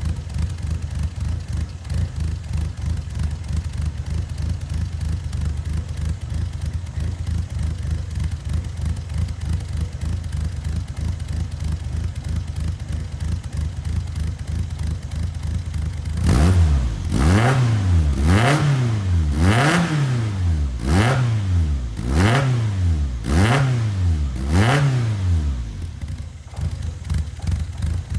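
Toyota AE86's 1.6-litre twin-cam four-cylinder (4A-GE) idling steadily at the exhaust, then blipped about seven times in quick succession, each rev rising and falling back, before settling to idle again near the end.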